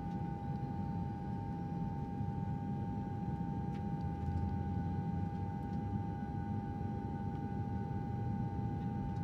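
Airplane sound effect: a steady jet-engine drone, a low rumble under an even whine, for a plane in flight.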